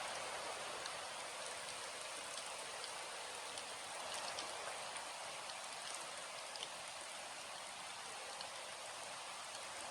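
Steady rain: an even hiss of falling rain with individual drops ticking sharply through it.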